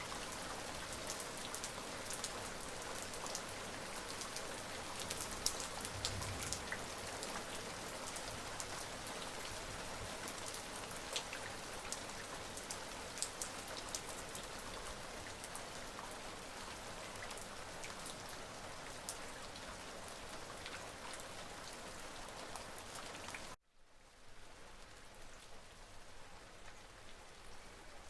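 Steady rain falling, with many individual drops ticking close by. About twenty-three seconds in, the sound cuts off abruptly and carries on as a quieter, softer rain.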